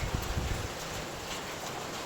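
Steady rain falling with wind, an even hiss throughout, with a brief low rumble in the first half second.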